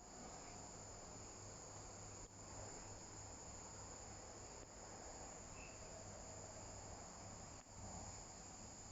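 Viadana bush katydid calling: a faint, steady, high-pitched insect trill that holds without a break.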